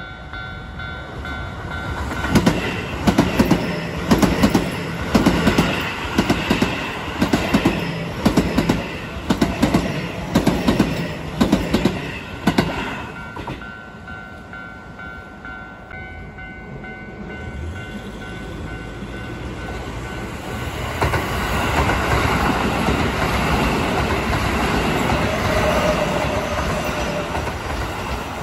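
Keio Line electric commuter trains passing on the track. First, wheels click over rail joints in a quick, even rhythm for about ten seconds and stop. After a lull, a second train comes up and passes close by with a steady rumble of wheels on the rails.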